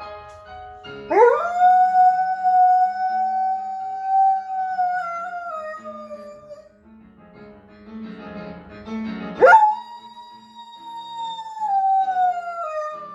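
A dog howling: two long howls, each sweeping sharply up in pitch, held for several seconds and then sliding slowly down, the second starting a little higher.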